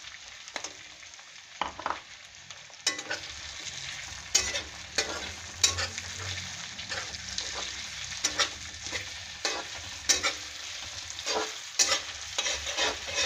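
Chopped onions and bay leaves sizzling in hot oil in a metal kadhai, with a spatula stirring and scraping against the pan in repeated sharp knocks from about three seconds in.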